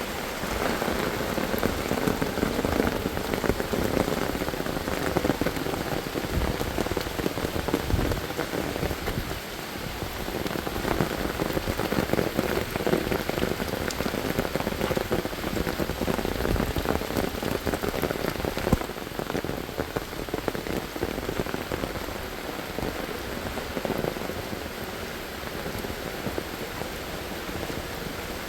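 Steady monsoon rain falling, a dense patter of drops on surfaces.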